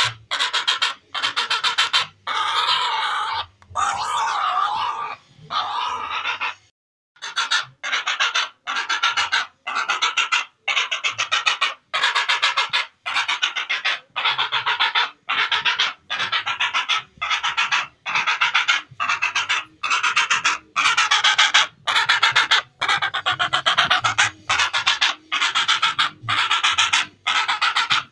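Heron (cangak) giving harsh, rasping calls in a steady series, a little over one a second. A few longer, wavering calls come a few seconds in, and there is a short break around seven seconds.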